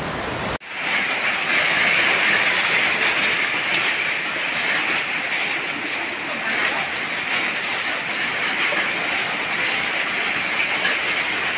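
Heavy downpour mixed with hail, a dense steady hiss of rain and hailstones pelting down, with a brief dropout about half a second in.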